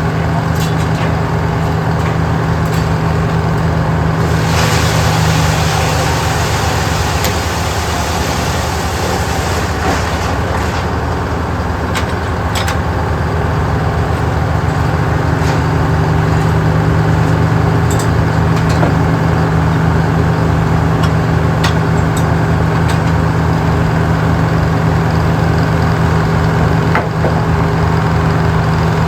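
A large engine running steadily with a rapid low pulse, and a hiss about four seconds in that lasts around five seconds.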